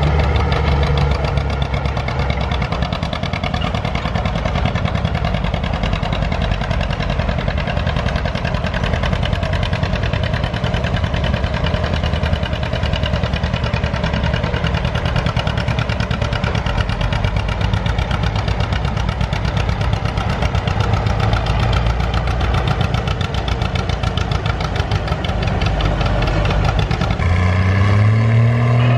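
Antique farm tractor engine running loud and steady under heavy load, as in a sled pull. Near the end a low engine note rises in pitch as an engine revs up.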